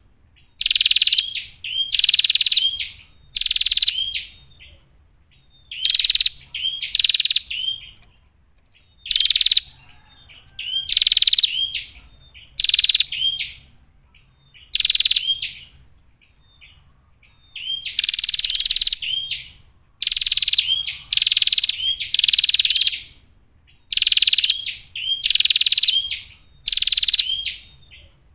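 Female prinia (prenjak) calling: harsh, rapid bursts of notes, each under a second, repeated in runs of two or three with short pauses between the runs.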